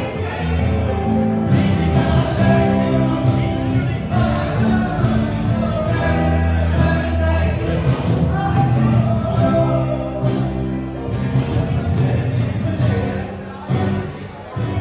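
Live band music with singing over bass and drums, the drum and cymbal hits coming steadily throughout.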